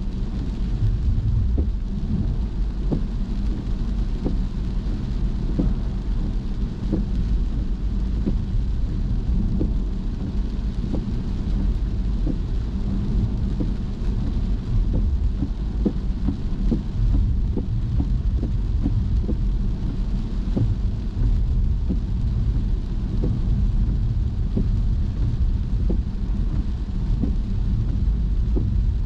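Steady low rumble of a car driving in the rain, with scattered light ticks of raindrops striking the car.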